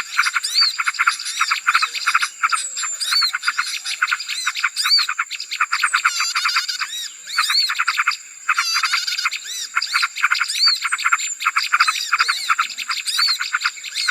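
Small birds chattering and chirping in a dense chorus: rapid rattling trills overlaid with repeated short, arched chirps, with a brief lull about eight seconds in.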